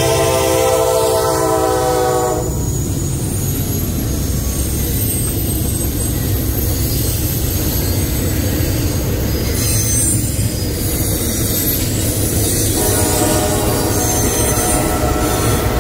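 Norfolk Southern SD70ACe locomotive's air horn sounding for the grade crossing, cutting off about two and a half seconds in. Then a long double-stack intermodal train rolls past with a steady rumble and clatter of wheels on rail, and thin high wheel squeal in the second half.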